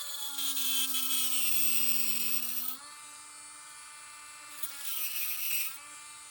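Small high-speed rotary tool running with a steady whine, its pitch dropping under load as it grinds a notch into a plastic model part: once for about two and a half seconds from the start, and again briefly near the end.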